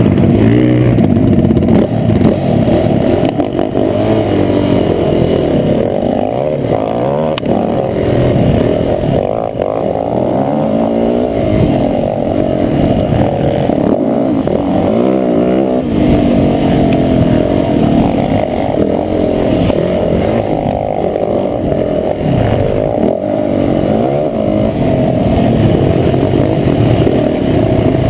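Motocross bike engine revving up and down continuously as it is ridden hard round the track, the pitch rising and falling with each burst of throttle and gear change; the sound is muffled, with little above the low and middle range.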